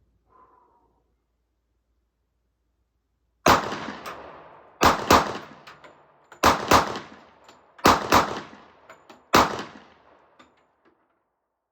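Handgun fired eight times at a target about 25 feet away: a single shot, then three quick double taps, then a last single shot, each followed by an echoing tail.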